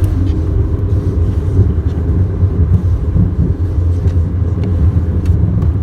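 Steady, loud, low rumble inside the cabin of a Delta Airbus A220-300 jetliner on its landing at Salt Lake City.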